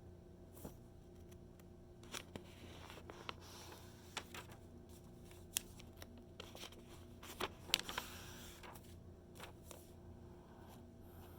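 Magazine pages being handled and turned: soft paper rustles with small sharp crinkles and taps, and two longer page-turning swishes, one about a quarter of the way in and one about two-thirds in.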